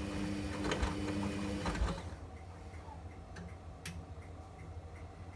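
Front-loading washing machine starting a cycle: a low hum with a few clicks for about two seconds, then light, regular ticking about three times a second.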